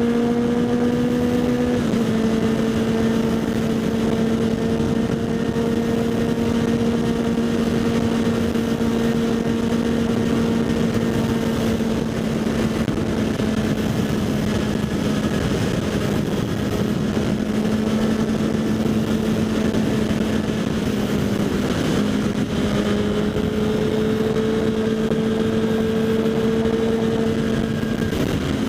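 Kawasaki Z800 inline-four running at a steady, held speed through a LeoVince SBK aftermarket exhaust, heard from the rider's helmet with wind rush underneath. Its note steps down slightly about two seconds in and then stays nearly even.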